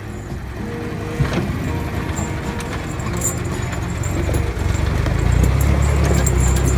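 A vehicle engine running at low speed, growing louder from about five seconds in.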